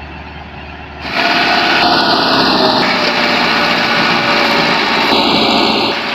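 Diesel tractor engine running hard, much louder from about a second in, with two brief high-pitched tones over it.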